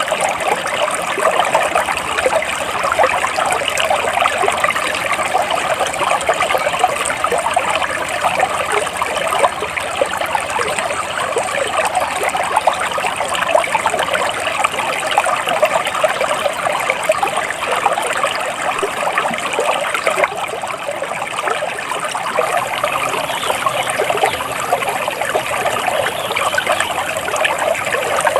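A stream of flowing water trickling steadily.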